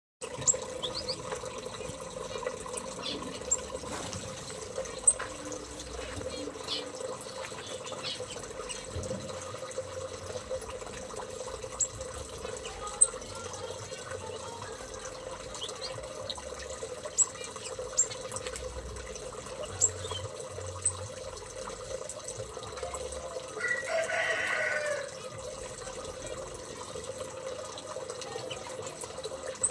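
Small aviary birds giving scattered short, high chirps and ticks over a steady hum, with one louder, longer call lasting about a second near three-quarters of the way through.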